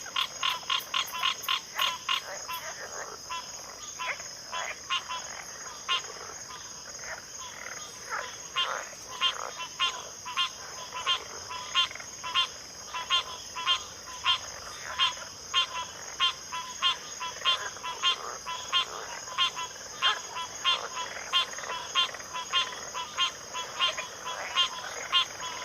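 Backwater frog chorus: short, sharp calls repeated in quick succession, fast at first and then about two a second, over a steady high-pitched drone of insects.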